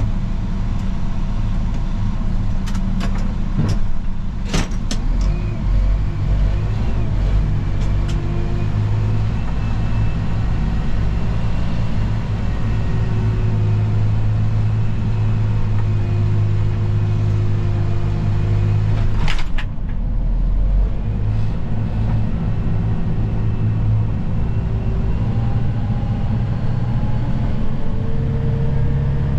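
Engine of a snow-plowing vehicle running steadily, its pitch shifting up and down a few times. There are a few sharp knocks a few seconds in and a louder one about two-thirds of the way through.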